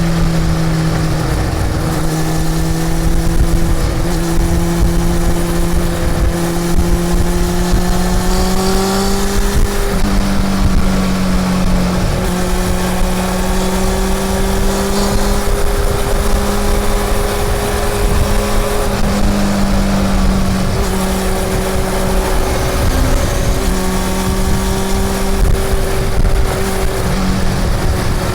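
Honda CB400 Super Four's inline-four engine under way on the road, pulling with a slowly rising pitch that drops sharply at gear changes, about a third and two thirds of the way in, over a steady rush of road and wind noise.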